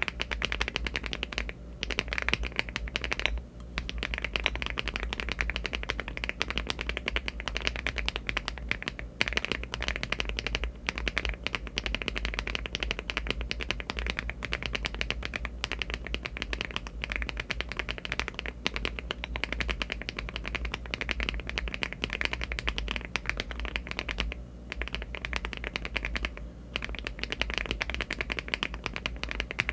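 HMX Jammy switches (63 g) typed fast on a LEOBOG Hi75 aluminium mechanical keyboard with Cherry-profile keycaps: a dense, continuous clatter of keystrokes. It breaks off briefly four times.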